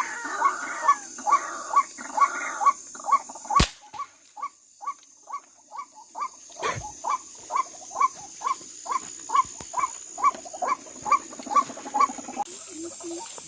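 White-breasted waterhen calling, a short 'ruak' note repeated steadily at about two to three a second. About three and a half seconds in, a single sharp crack of an air rifle shot cuts across the calls.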